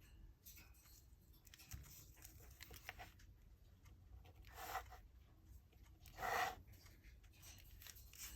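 Faint handling of paper and cardstock, with light scattered clicks and two short, louder rustles about four and a half and six seconds in, the second the loudest.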